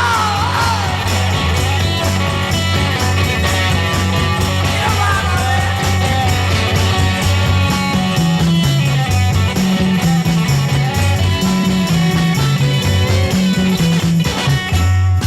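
Instrumental passage of a 1960s garage rock record: guitar over a bass line that steps from note to note.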